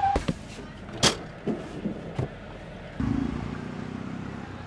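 A few sharp clicks, the loudest about a second in. About three seconds in, a low steady engine hum begins.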